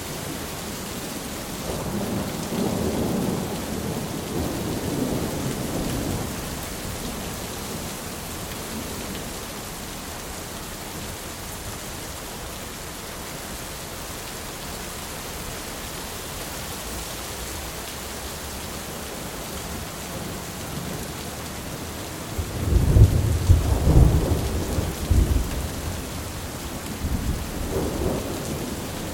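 Thunderstorm: steady heavy rain with rolling thunder, a low rumble a couple of seconds in and a louder close crack and rumble about three quarters of the way through, followed by a smaller rumble near the end.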